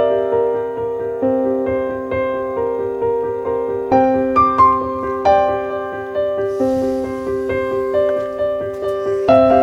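Background solo piano music: a slow run of single notes and chords, each struck and left to ring and fade.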